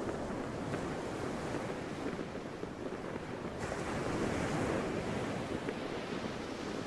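Sea waves washing in steadily, with wind. About three and a half seconds in, a wave surges and the hiss of the water grows brighter.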